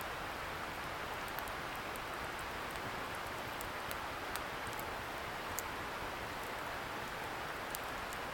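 Wood fire crackling, with a few sharp pops scattered through, over a steady hiss from a distant river.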